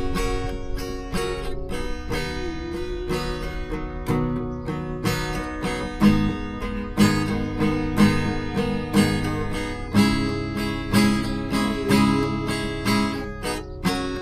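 Background music: an instrumental passage of acoustic guitar, strummed chords struck about once a second in a steady rhythm.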